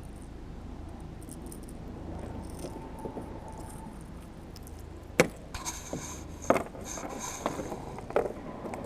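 Hard knocks and clatter of gear against a kayak, about five sharp hits in the second half over a steady low background rumble.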